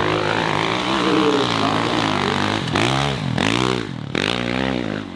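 Dirt bike engine revving hard, its pitch rising and falling several times in quick succession as the throttle is worked.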